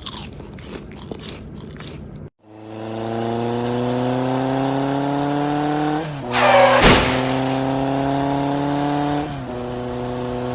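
A steady motor-like drone that slowly rises in pitch, with a short loud rush of noise in the middle and a step down in pitch near the end. It begins after a sudden cut from a short stretch of scratchy noise.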